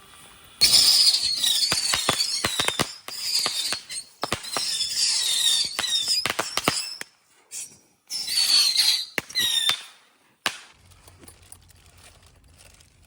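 A mass of bottle rockets going off together: a loud hissing screech with high whistles, peppered with many sharp pops and cracks. It starts suddenly about half a second in, comes in waves, returns in a last burst about eight seconds in, and ends with one single crack.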